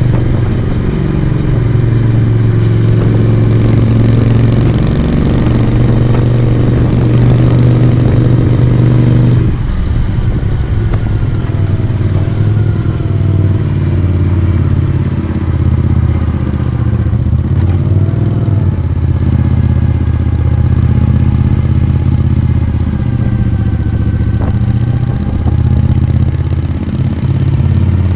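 Moto Guzzi V35's V-twin engine and exhaust running under way on the road, pulling steadily. About nine seconds in the sound drops suddenly, and the engine runs on more softly with its pitch rising and falling.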